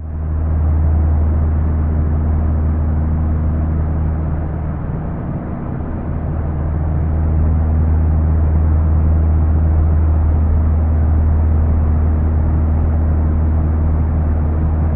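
A steady, loud low hum, like a motor or engine running evenly.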